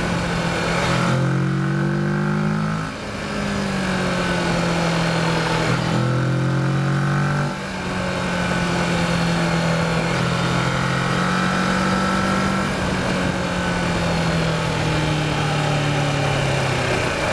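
Kawasaki Versys motorcycle engine running under load on the move, its note shifting in pitch as the throttle changes. The sound drops briefly twice, about three and seven and a half seconds in, then picks up again.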